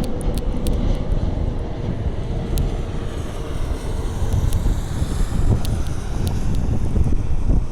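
Jet airliner on arrival, its engines a low rumble with a faint whine slowly sinking in pitch, mixed with wind buffeting the microphone. A few faint sharp ticks come through on top.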